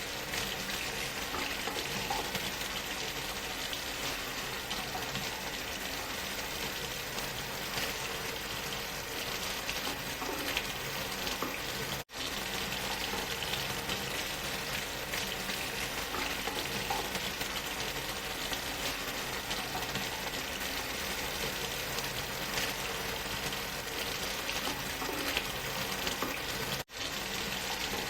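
Steady rushing waterfall sound mixed with white noise, an even hiss that cuts out for an instant twice: about twelve seconds in and again near the end.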